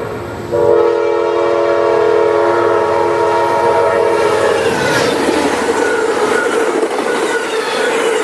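Air horn of Amtrak locomotive 186, a GE P42DC, sounding a long steady blast that starts about half a second in and ends around four to five seconds in, followed by the rumble and clatter of the train rolling by.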